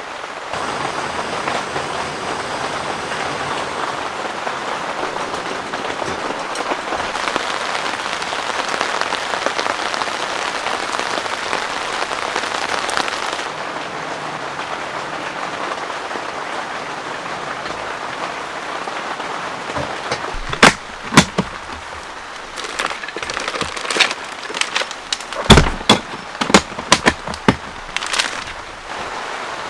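Heavy rain falling steadily as a dense hiss. About two-thirds of the way in, loud sharp taps of heavy drops start striking irregularly over the rain.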